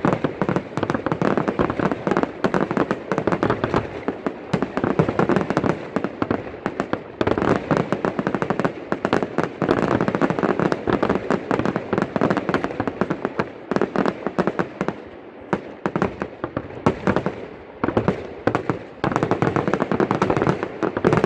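Fireworks display: a rapid, nearly continuous barrage of bangs and crackling reports, thinning briefly a couple of times in the second half.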